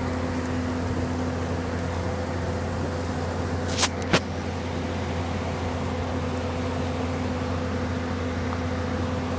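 An engine running steadily at one constant speed, with two sharp knocks about four seconds in.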